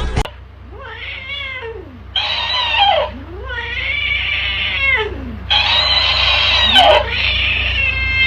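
Cat yowling in a run of about five long, drawn-out calls, each rising and then falling in pitch.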